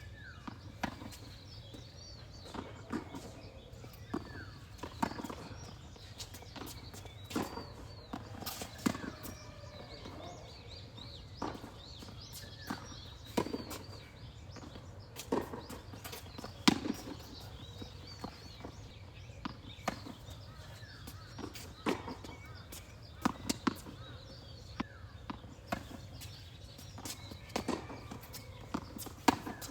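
Tennis rally: sharp pops of racket strikes and ball bounces, one every second or two, in an irregular back-and-forth pattern.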